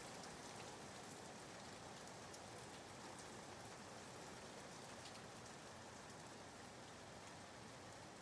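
Soft, steady rain ambience: a faint even hiss of falling rain with scattered small drop ticks, used as a white-noise bed.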